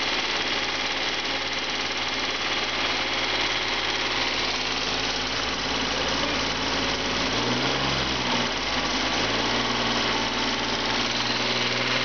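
Saturn L300's 3.0-litre V6 idling steadily during an engine test run, its low hum wavering briefly about two-thirds of the way through.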